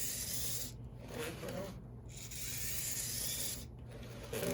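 Small HO-scale model locomotive's motor and gears running on the track with a rasping whir that cuts out and starts again three times: stalling from flaky electrical pickup at the wheels.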